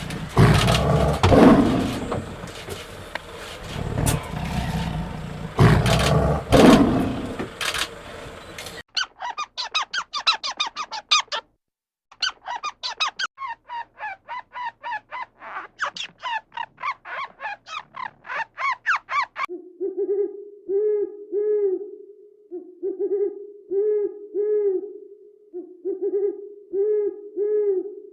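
A run of animal calls in three parts. First a noisy, irregular stretch, then rapid high chirps repeated many times a second. From about two-thirds of the way in, a low three-note call repeats in three phrases.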